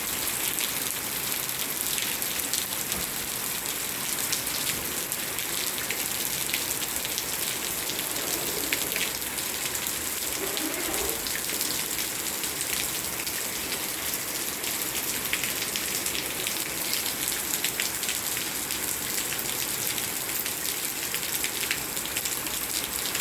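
Steady rain falling, an even hiss with many separate drops ticking on surfaces.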